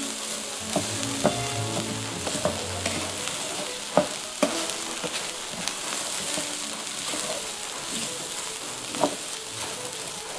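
Instant rice and chopped vegetables sizzling in a skillet as they are stirred, with a utensil knocking against the pan a few times.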